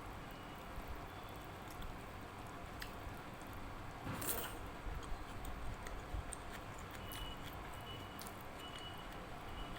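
Eating by hand from a plate of dal and rice: quiet chewing and soft squishing of food, with one brief sharper scrape or clatter a little over four seconds in.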